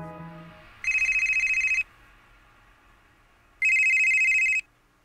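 Telephone ringing twice, each ring a fast trill about a second long. A few notes of music fade out just before the first ring.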